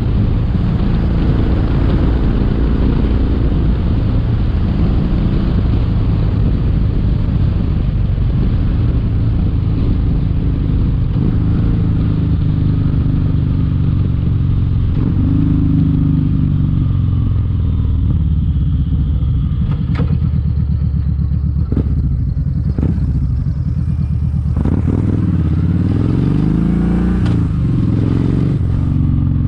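Kawasaki Vulcan 1700 Vaquero's V-twin engine running on the road, its pitch rising and falling as the bike changes speed, with a few clicks in the second half.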